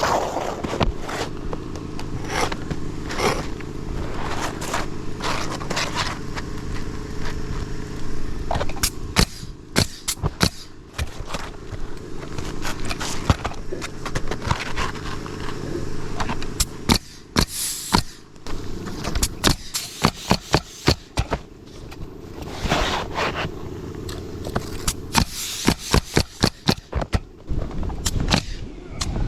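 Roofing work on an asphalt-shingle roof: scraping, with many sharp knocks and clicks at irregular intervals and a quick run of them near the end, over a low steady rumble.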